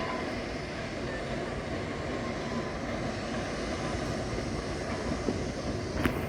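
Passenger train rolling into the station: a steady rumble and rush of moving rail cars, with one short sharp knock about six seconds in.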